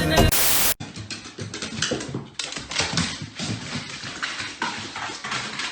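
A brief burst of noise, then an animal's sounds mixed with irregular scuffling and knocking.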